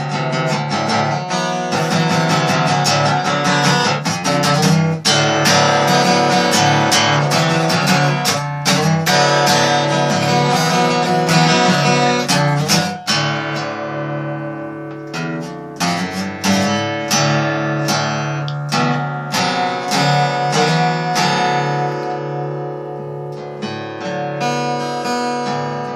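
Acoustic guitar strummed and plucked, one string stroke after another with ringing notes.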